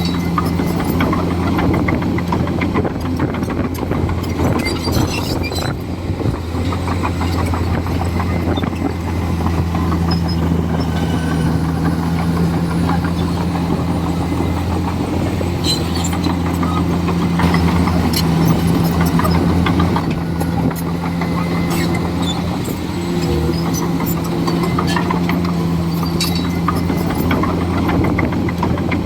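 Komatsu D41E bulldozer's diesel engine running steadily under work, with scattered sharp clicks and clanks over it. The engine pitch dips briefly about two-thirds of the way through, then recovers.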